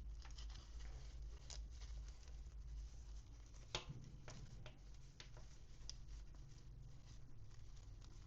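Faint, scattered clicks and taps from Barbie Christmas set packaging and small accessories being handled, with one sharper click about four seconds in. A steady low hum runs underneath.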